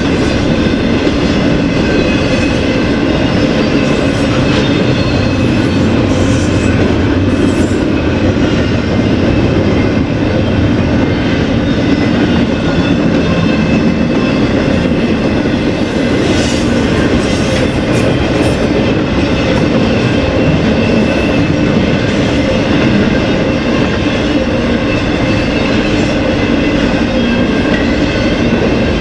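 BNSF freight train cars rolling past at steady speed: continuous wheel-on-rail noise with a few faint held high tones over it.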